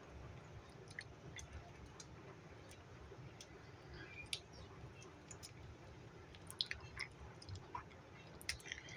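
Faint chewing close to the microphone, with scattered small clicks and soft mouth noises.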